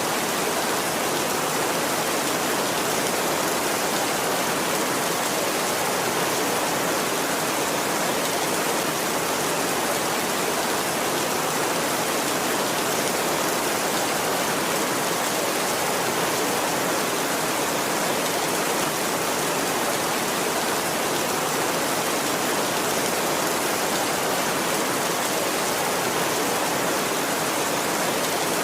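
Heavy rain falling steadily on a tin roof, a dense, even patter with no thunder.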